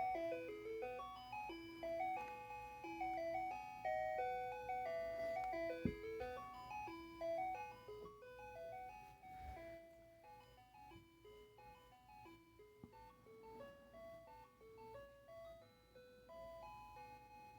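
Ice cream truck's chime loudspeaker playing its simple jingle tune, note by note, growing fainter from about eight seconds in. A brief knock sounds about six seconds in.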